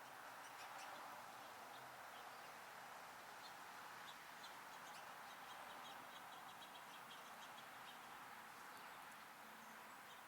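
Faint chirps of small songbirds over a steady hiss of background noise, with a quick run of chirps near the middle.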